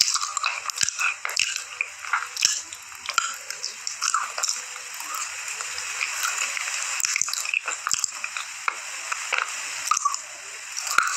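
Wet chewing and squishing of a mouthful of ground-up slate pencil paste, with many short sticky smacks and clicks of the tongue and lips.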